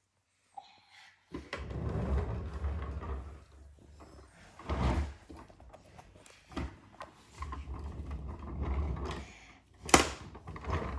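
Plastic toys being handled and moved about: irregular rumbling and scraping with knocks, and a sharp click near the end.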